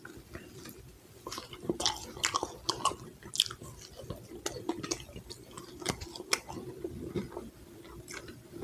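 A person chewing and biting food close to the microphone: a string of sharp, crunchy clicks and wet mouth sounds, thickest in the middle.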